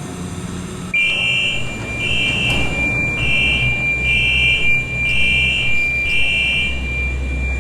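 Door-closing warning on a Hong Kong Airport Express train: six short electronic beeps, about one a second, over a steady high tone that comes on about a second in. A low rumble runs underneath.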